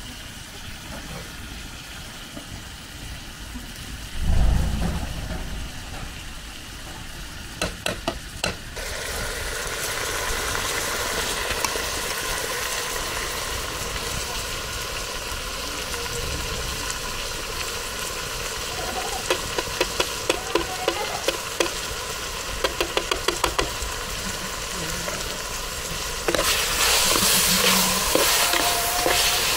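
Pumpkin pieces frying in a metal pot over a wood fire, sizzling steadily, with a metal ladle clinking and scraping against the pot in quick runs as it is stirred. The sizzling grows louder near the end, and there is a dull thump about four seconds in.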